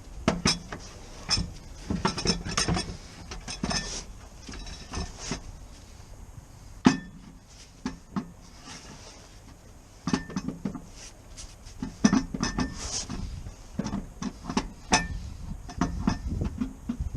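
Metal tools and parts clinking and knocking against each other in irregular taps, some leaving a short metallic ring, with a quieter pause in the middle.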